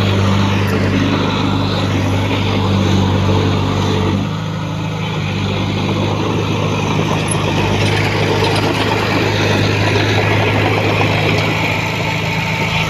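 Diesel engine of heavy earthmoving equipment running steadily under load, its low note changing and the level dropping slightly about four seconds in.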